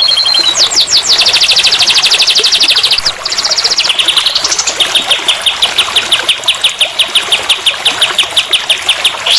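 Songbird song made of rapid repeated notes: a very fast trill, then a short rising run, then a slower, even series of clipped notes at about six a second.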